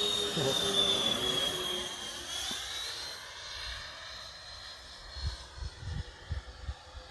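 Electric ducted-fan motor of a radio-controlled MiG-29 jet whining in flight as it passes, its high whine dipping in pitch and then fading away into the distance. A few low thumps near the end.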